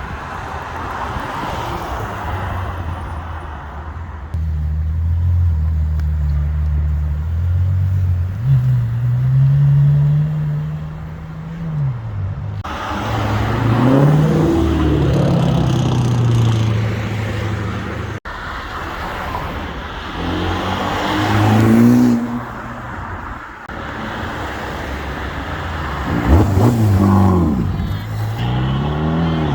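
Supercar engines idling and revving, their pitch climbing and falling as the cars accelerate hard, in several separate short bursts.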